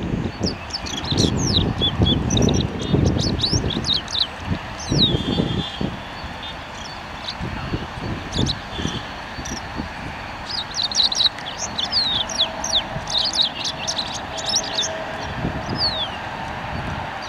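Small birds chirping: clusters of short, quick, high chirps, many of them falling in pitch, with gusts of low rumbling noise underneath, loudest near the start.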